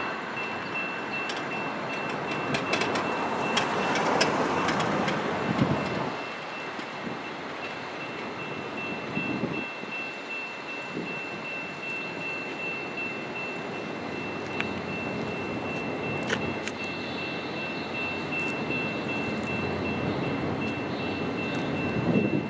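Distant rumble of an approaching freight train, louder in the first few seconds and again near the end, with a thin steady high tone running through it.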